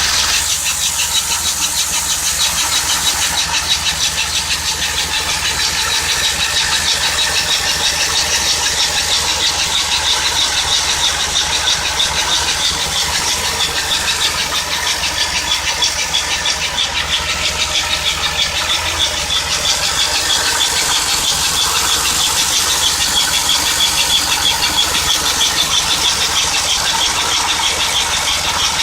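Engine running from a cold start, with a high-pitched squeak that repeats rapidly and steadily over the engine noise.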